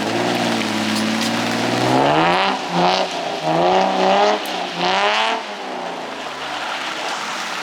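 Car engine revving hard in a drift: its pitch climbs, then rises and falls about four times as the throttle is worked, and it drops away about five and a half seconds in. A steady hiss of rain runs underneath.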